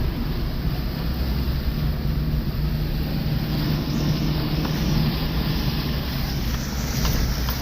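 Off-road vehicle's engine running steadily at low revs while wading through deep trail water, under a steady hiss.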